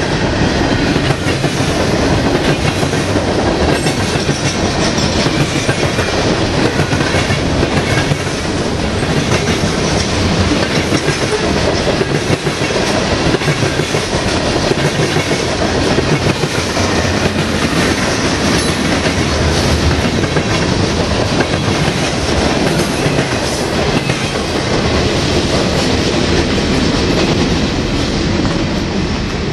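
Norfolk Southern mixed freight train's cars rolling past: a loud, steady rumble of steel wheels on rail, with the wheels clicking over the rail joints.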